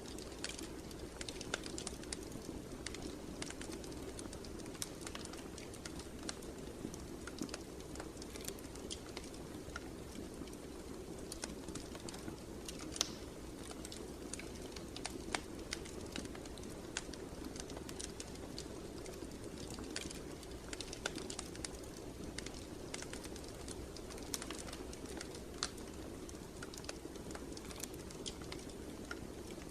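Wood fire crackling and popping: irregular sharp snaps over a steady low rush of the flames, with a few louder pops.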